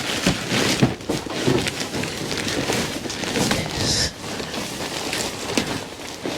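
A bag of bird's-nest debris being handled, rustling and crackling irregularly.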